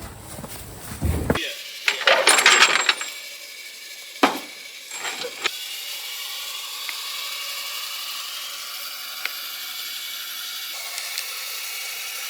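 Hand tools and metal car parts clanking and rattling, with a busy rattle about two seconds in and two sharp metallic knocks around four and five seconds in, then a steady hiss.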